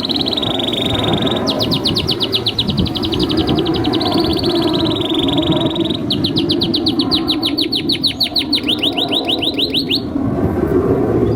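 Canary singing: a held high whistled note, then two long rapid trills of repeated notes, the second faster, ending about ten seconds in. A steady low background noise runs underneath.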